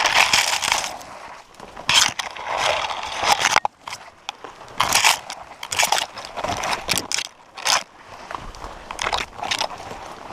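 Close crunching and rustling of twigs and leaf litter on a forest floor, coming in irregular bursts about every second.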